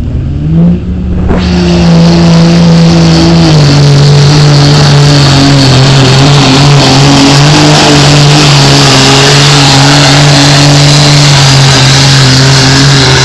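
A pulling truck's engine revving hard, then held at full throttle under heavy load down the track, very loud. The pitch steps down once, about three and a half seconds in.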